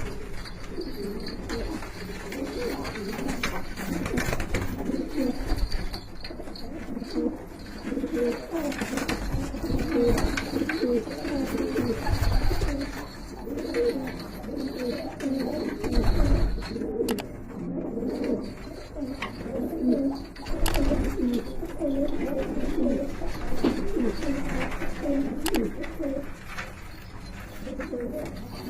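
Many domestic pigeons cooing over one another without a break, with a couple of low thumps.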